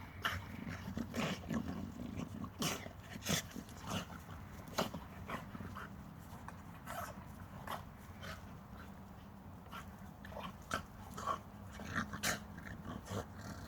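Pit bull-type puppies play-fighting: irregular short yips and sharp scuffling noises, with some growling.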